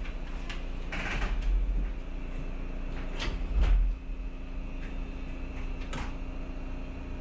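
Electric commuter train running, heard from the cab: a steady hum with scattered knocks and clicks, and two heavier low thumps, one about a second in and one around three and a half seconds in.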